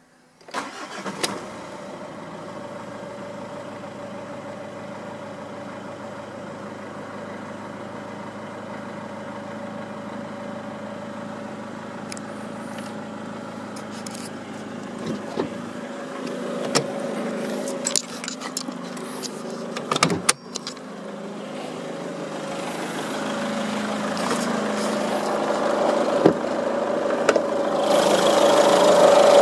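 Mazda diesel engine starting about half a second in, then idling steadily. It is heard first from inside the cabin and grows louder toward the end as the sound comes from the open engine bay. A few clicks and a sharp knock come about twenty seconds in.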